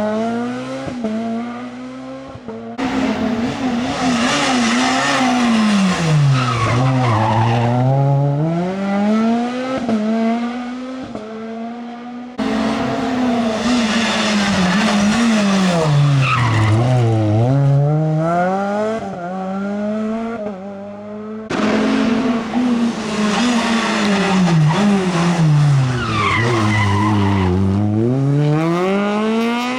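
Rally car engines at high revs, one car after another. Each falls in pitch as the car brakes and changes down into a bend, then rises again as it accelerates away. Each pass breaks off suddenly and the next begins, about every nine seconds.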